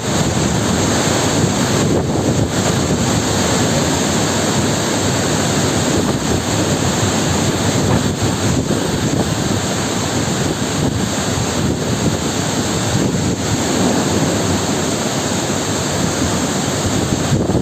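Heavy rain falling in a thunderstorm, a steady dense hiss with no clear thunderclap.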